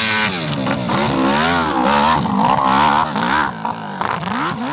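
Hill-climb motorcycle engine revving hard, its pitch swinging up and down repeatedly as the throttle is worked.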